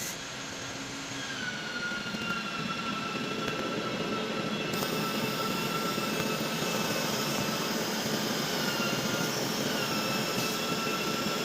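Straight seam welding machine for glass-lined water heater inner tanks running: a steady mechanical noise with a high whine that wavers slightly in pitch. It grows a little louder over the first couple of seconds.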